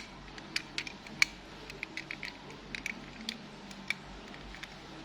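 Irregular small plastic clicks and taps from a transforming toy car being handled, its parts pressed and snapped, with one sharper click about a second in.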